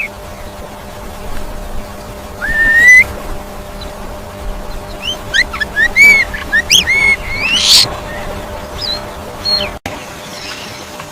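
Bird calling in clear whistled notes: one rising whistle about two and a half seconds in, then a quick run of short whistled calls from about five to eight seconds, ending in an upward sweep.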